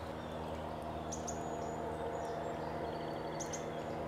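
A steady low hum with several even overtones runs under a few short high bird chirps, which come about a second in and again near the end.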